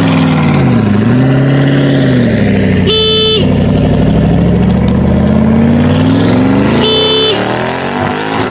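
Vehicle engine sound running and revving, its pitch dipping and rising smoothly, with two short horn beeps, about three seconds in and again about seven seconds in.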